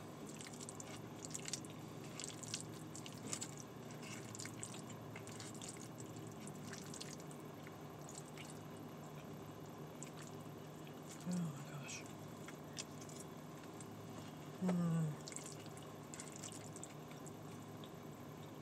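Close-up eating sounds: soft wet mouth clicks and chewing while a forkful of rice-and-bean bowl is eaten, over the steady low hum of the car's air conditioning. Twice, about 11 and 15 seconds in, there is a short hummed 'mmm' that falls in pitch.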